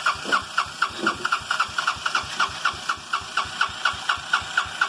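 Honda 200cc single-cylinder engine running at a steady idle just after a cold start in freezing weather, with an even beat of about five exhaust pulses a second through a gutted go-kart muffler.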